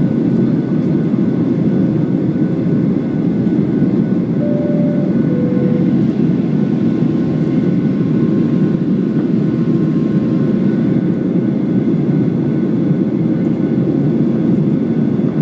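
Steady jet engine and airflow noise heard from inside a Boeing 737's cabin in flight, with a two-note chime, high then low, about four and a half seconds in.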